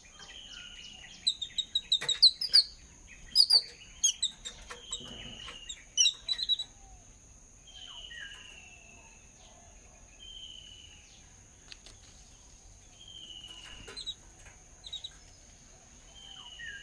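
Songbirds calling: one bird repeats a short, slurred downward whistle every two to three seconds, while loud, sharp chirps come in quick bursts during the first six seconds. A steady high-pitched hum, likely insects, runs underneath.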